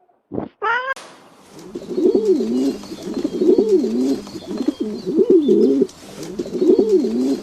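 A cat's short meow right at the start, then pigeon cooing: low, wavering coo phrases repeated about once a second and a half.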